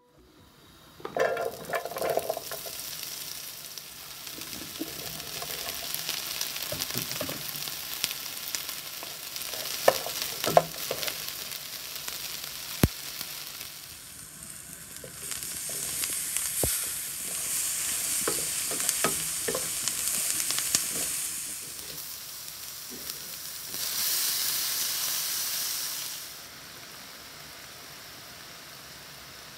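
Vegetables and Quorn pieces sizzling in a hot pan as they are stir-fried, with the utensil clattering and a few sharp knocks against the pan. The sizzle swells louder in spells through the middle and around three-quarters of the way in, then drops back near the end.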